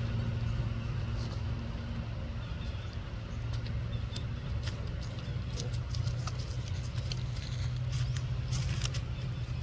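A steady low hum with scattered light clicks and ticks, a denser cluster of them near the end.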